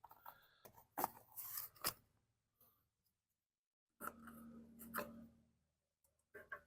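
Faint, scattered clicks and scrapes of parts being handled on a small two-stroke tiller engine, with a few sharp clicks about a second in and more handling about four seconds in.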